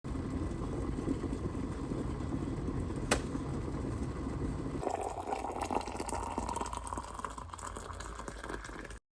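Chai tea on the boil, a steady bubbling rush, with a sharp click about three seconds in. After about five seconds the sound changes to liquid being poured into a cup, its pitch rising slightly as the cup fills.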